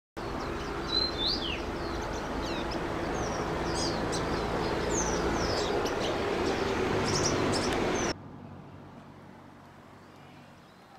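Many small birds chirping and calling over a steady outdoor background noise with a faint low hum. About eight seconds in the sound drops abruptly to a much quieter background with only occasional faint chirps.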